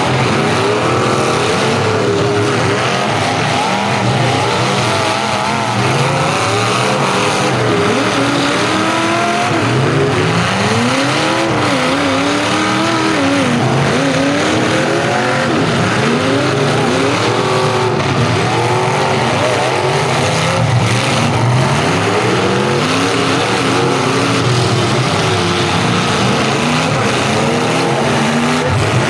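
Several full-size demolition derby cars' engines revving at once, their pitches rising and falling over one another as the cars accelerate, back up and ram.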